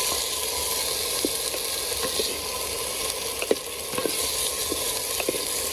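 Chicken sizzling in hot oil with garlic in a clay pot (palayok), a steady sizzle, with a few short knocks of a utensil stirring it.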